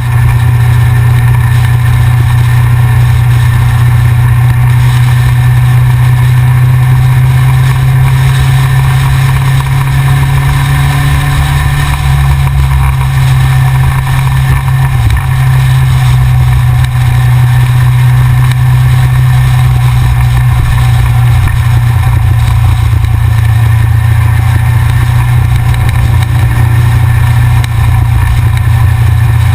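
Yamaha XJR inline-four motorcycle engine running loud and steady at a constant pace while riding.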